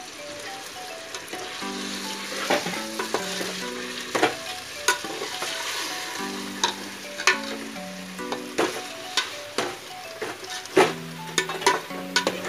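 Chicken pieces sizzling in hot oil and masala in an aluminium pot, stirred with a metal slotted spatula that scrapes and knocks against the pot many times.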